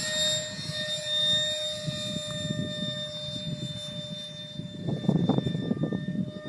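Electric ducted fan of an RC F-16 jet running at high throttle: a steady high-pitched whine. Wind buffets the microphone underneath, with stronger gusts near the end.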